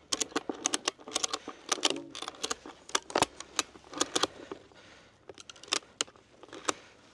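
A quick, irregular run of sharp clicks and clinks, dense for about four seconds, then a few scattered ones near the end.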